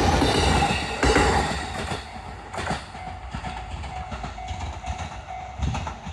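Electric train running past, loud at first and fading after about two seconds, with its wheels clacking over rail joints.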